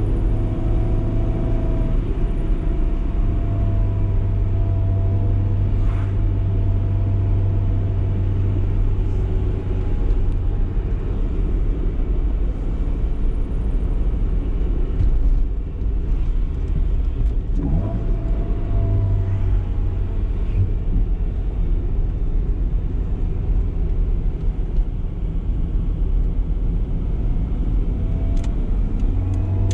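BMW E30 318is's 1.8-litre four-cylinder engine running while driving, its pitch rising and falling with the throttle a few times, with a brief drop in level about halfway through and road and tyre noise underneath.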